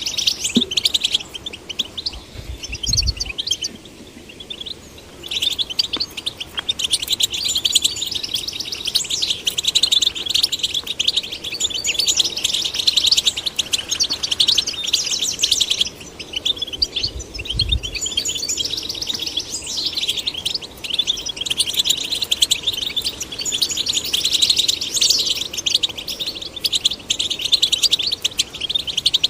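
European goldfinch singing: a fast, continuous twittering song of rapid trills and chirps, with brief lulls about four and sixteen seconds in. Two soft low thumps sound beneath it.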